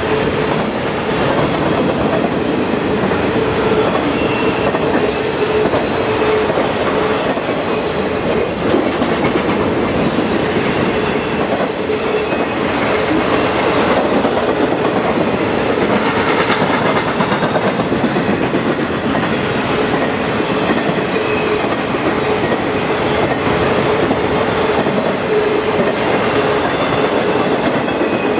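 Intermodal freight train of trailers on flatcars rolling past: a steady rumble of wheels and cars with clickety-clack over rail joints and a steady low whine.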